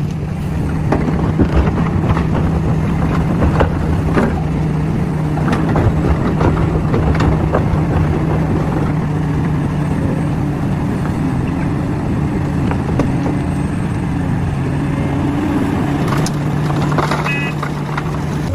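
Heavy diesel engine of mining machinery running steadily, with scattered knocks and clanks over it.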